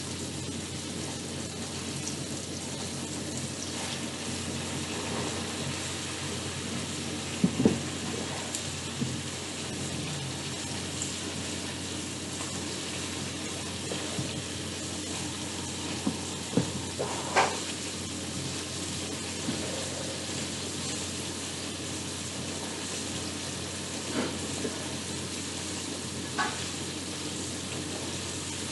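Breaded cube steaks for chicken fried steak frying in hot oil, with a steady sizzle throughout. A few sharp knocks and clinks break in, clustered around a quarter, a half and near the end.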